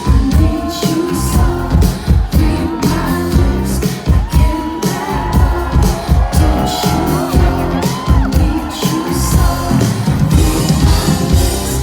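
Live pop concert music heard through a crowd recording: a steady electronic dance beat, with vocal or synth lines over it and audience shouts and whoops.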